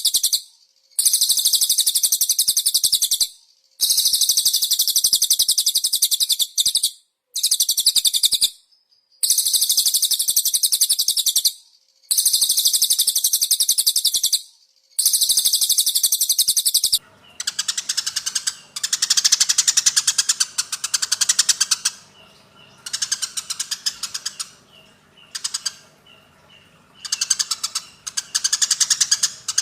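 Songbird song played back: long, high, buzzy trills of two to three seconds each with short breaks. About halfway through it changes to a more varied, rapid chirping in shorter phrases.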